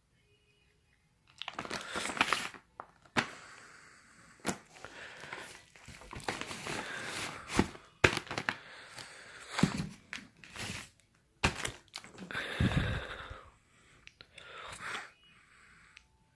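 Packaging of a fireworks box being torn open and handled: tearing and crinkling with sharp cracks, in irregular bursts from about a second in until near the end.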